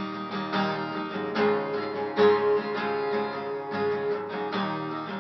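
Acoustic guitar strummed in a steady rhythm, about three strokes a second, with no singing: an instrumental break in the song.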